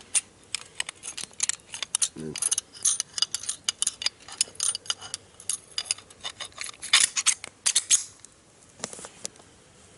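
A pistol being reassembled by hand: a rapid run of small metallic clicks and scrapes as its parts are fitted back together. The clicks thin out to a few near the end.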